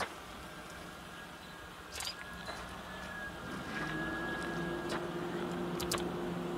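A motor vehicle engine idling with a faint steady hum, with a few sharp clicks about two seconds in and twice near the end.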